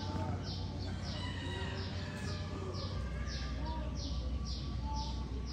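A small bird chirping over and over in short, high, evenly spaced chirps, about two a second, over a low steady hum.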